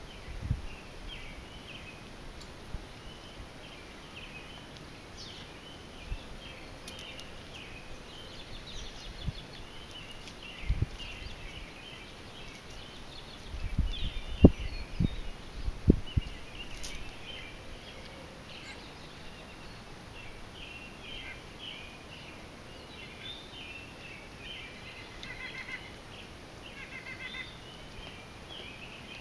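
Several small birds chirping and singing throughout over a steady outdoor background hiss. A few dull low thumps stand out, loudest in a short cluster about halfway through.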